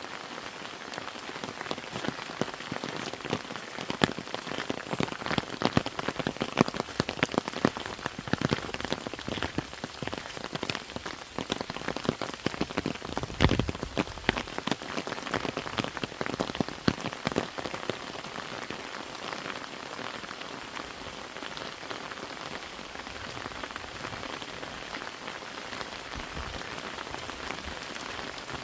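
Rain falling: a steady hiss with many separate drops pattering close by. The drops come thicker and louder through the middle stretch, with one heavy drop about halfway through.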